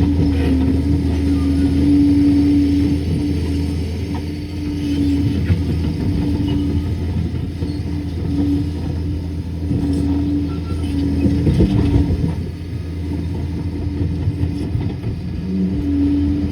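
Liebherr PR 746 crawler dozer's diesel engine running steadily at work, a low drone with a whining tone that fades in and out, and a short burst of louder clatter about twelve seconds in.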